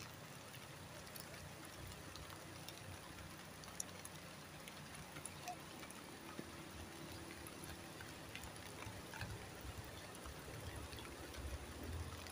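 Faint, steady wash of flowing river water, with scattered small ticks of light drizzle.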